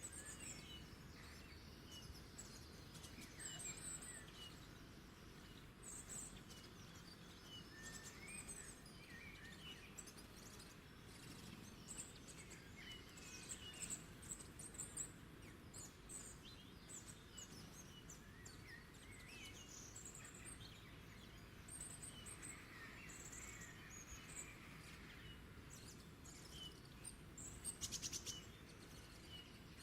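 Wild songbirds chirping faintly: many short, scattered calls and brief trills over a low steady background hum, with a quick run of rapid sharp notes just before the end.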